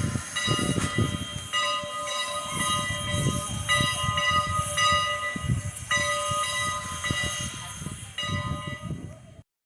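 Passenger car of a steam-hauled train rolling on the rails, with irregular low rumbles and thumps under a set of steady high ringing tones that drop out and return. It cuts off abruptly near the end.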